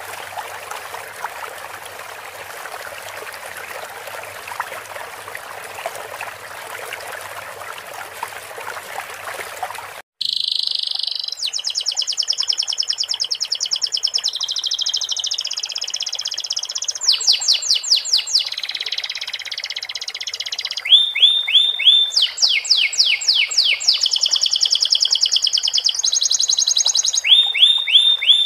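Steady sound of trickling stream water, cut off abruptly about ten seconds in by a domestic canary singing loud rapid trills and runs of quick down-sweeping notes. This is canary song filled with sikatan londo (flycatcher) phrases.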